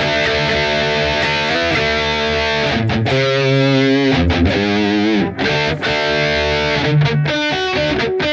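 Harley Benton Fusion-III electric guitar played through its bridge humbucker with a distorted tone, ringing chords that change every second or so, one held with a wavering vibrato about three seconds in.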